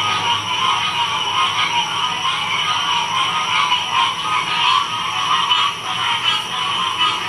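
Dense chorus of many frogs calling at once, a steady, unbroken din in two overlapping pitch ranges, one high and one lower.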